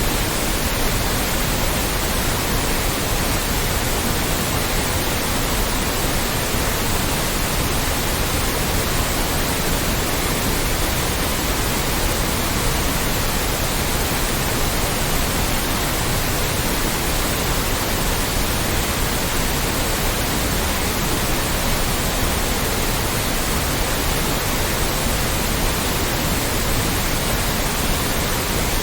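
Loud, steady synthetic white noise: an even, unbroken hiss across the whole range from deep rumble to high treble, with no changes or events.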